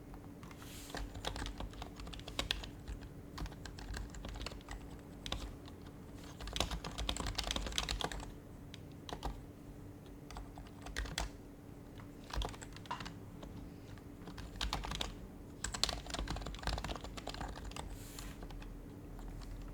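Typing on an HHKB Professional Hybrid Type-S keyboard with silenced Topre capacitive keys, in uneven runs of keystrokes with short pauses between. The fastest runs come about seven seconds in and again around fifteen seconds.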